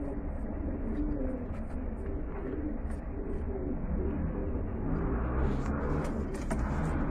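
Pigeons cooing, their low calls overlapping one after another. A rushing noise joins near the end.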